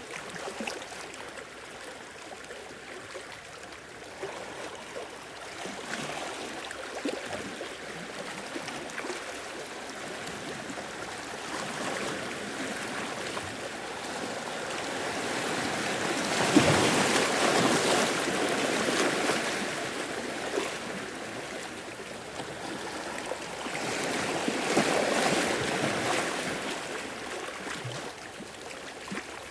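Sea waves washing onto the shore, with a steady wash of water and two larger waves swelling up and falling away, the first about halfway through and the second near the end.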